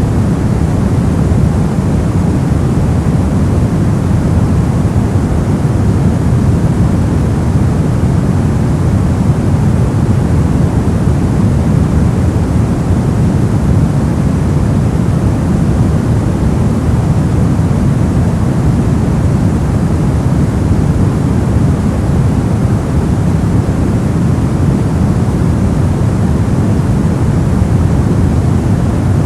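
Continuous steady noise, heavy in the bass and thinning out toward the treble, unchanging throughout: an ambient 'white noise' track.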